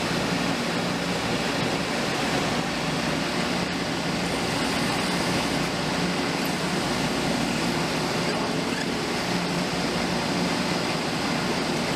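CNC machine running a machining program: a steady, even noise with a constant low hum and no distinct strikes.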